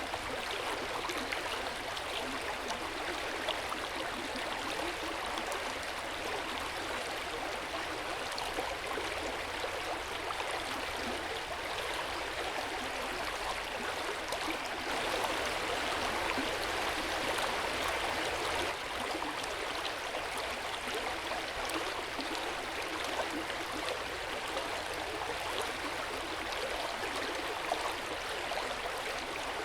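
Hot-spring water running steadily into an open-air bath, an even splashing and gurgling wash that swells slightly around the middle.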